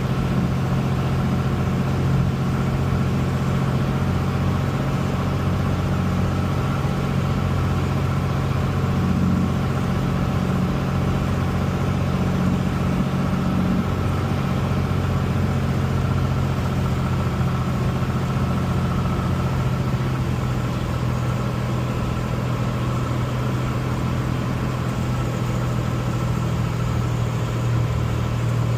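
Steady drone of an aircraft's engines and airflow heard from the cockpit during a landing, with a strong low hum under an even rush of noise. The lower part of the hum thins a little about two-thirds of the way in.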